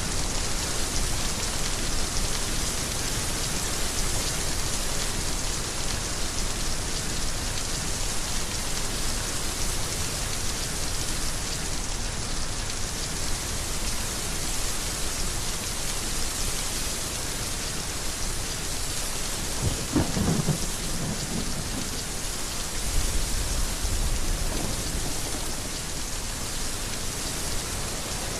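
Heavy rain falling steadily. About twenty seconds in a short crack of thunder sounds, followed a few seconds later by a deep low rumble.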